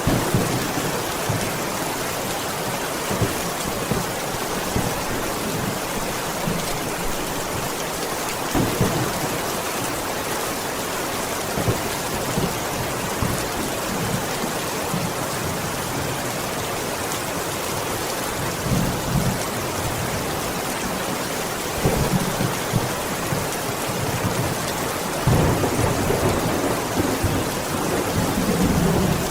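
Steady rain falling, an even hiss, with several short louder low rumbles coming and going through it, clustered near the end.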